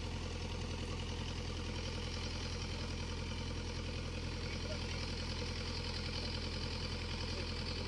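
Excavator engine idling steadily with a low, even hum.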